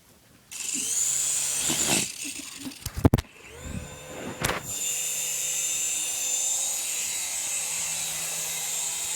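Small electric RC helicopter's motor and rotor spinning up with a rising high-pitched whine, then a sharp knock about three seconds in. It spins up again and settles into a steady whine as it hovers.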